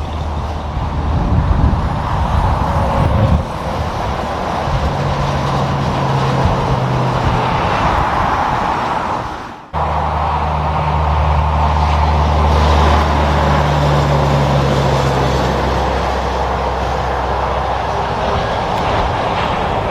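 Road traffic with heavy diesel trucks driving past, their engines humming steadily over tyre and road noise. The sound breaks off for a moment about halfway through, then resumes.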